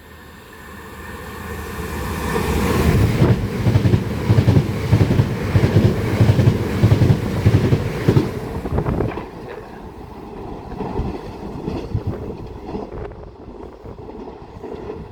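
A pair of Class 375 Electrostar electric multiple units passing through at speed, around 75 mph. The sound builds over the first few seconds and is loudest in the middle, with rapid beats of the wheels on the track, then fades away over the last several seconds.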